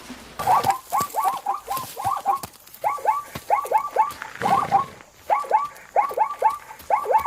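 An animal's calls: many short, squeaky calls, each falling in pitch, repeated in quick clusters of several a second, with a brief pause about five seconds in.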